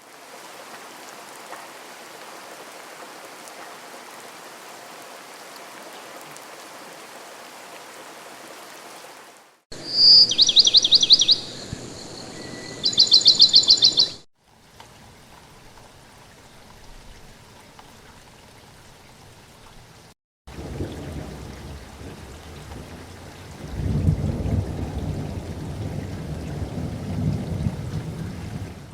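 Spliced nature sound effects: a steady rain-like hiss, then two loud, rapid bird trills about ten and thirteen seconds in. More hiss follows, with a low rumble like thunder near the end.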